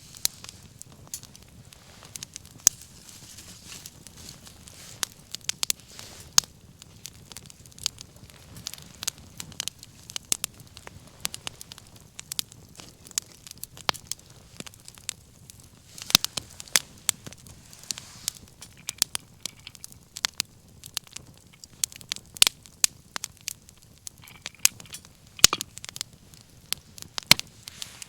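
Wood fire burning, crackling and popping irregularly over a soft steady hiss of flames.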